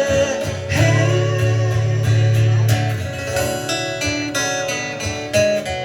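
Live guitar accompaniment in an instrumental break of a pop-rock song: strummed guitar chords over a low note held for the first few seconds, then quicker picked strokes.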